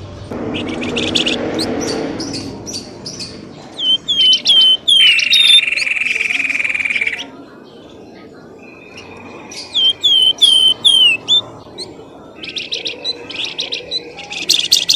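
Pelamboyan bird lure calls: loud, agitated bird calling made of repeated short whistled notes that bend downward, mixed with bursts of rapid chirping. A steady high-pitched buzzing tone lasts about two seconds near the middle.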